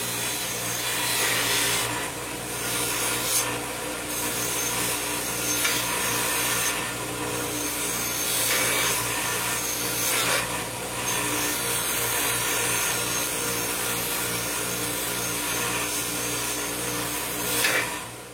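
Wire wheel running steadily, with a harsh scratching that swells and eases every second or two as a rusty steel bracket is pressed against it and worked to strip the rust. The sound cuts off abruptly near the end.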